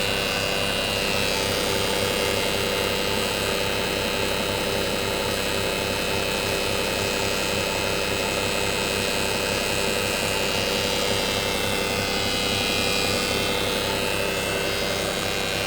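BMW E61 running, with a steady whine over a low, evenly pulsing hum. This is the strange noise the owner hears on the driver's side.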